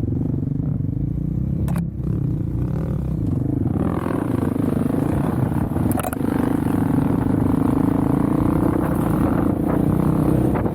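Small off-road vehicle engine running under way, its pitch dipping and then climbing about three to four seconds in and holding high after that.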